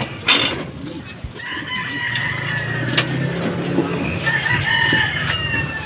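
A rooster crowing: one long crow lasting about three and a half seconds, starting about two seconds in.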